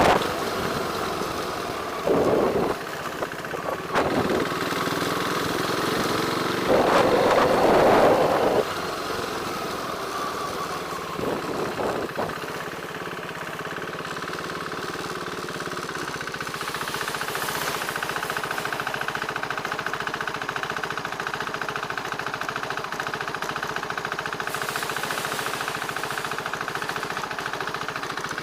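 Motorcycle engine running with traffic around, and several loud horn blasts in the first half, the longest lasting over a second. After that the engine runs on alone at a steady, even pulse.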